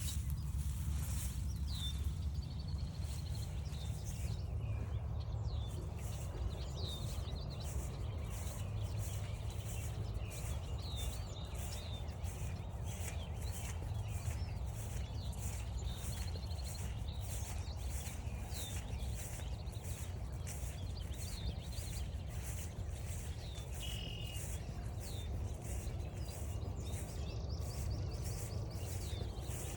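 Footsteps walking steadily along a forest trail, about two steps a second, with scattered songbird chirps and a brief trill about 24 seconds in, over a steady low rumble.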